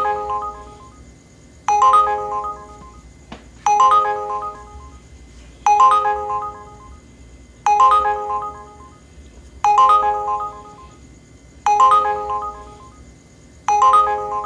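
Uber driver app ride-request alert: a short chime phrase that starts sharply and fades, repeating about every two seconds, signalling an incoming trip request.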